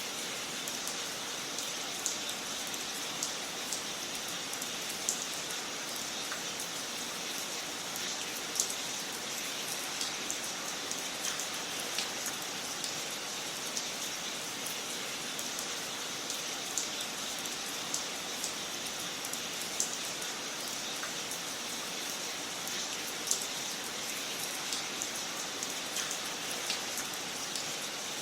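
Wood fire crackling in a fireplace: a steady hiss with scattered sharp pops and snaps at irregular intervals.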